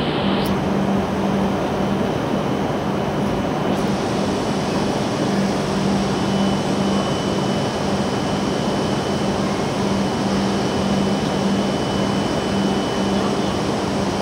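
Steady running noise of a stationary W7 series Shinkansen standing at the platform: its air-conditioning and auxiliary equipment running, with a low hum that comes and goes.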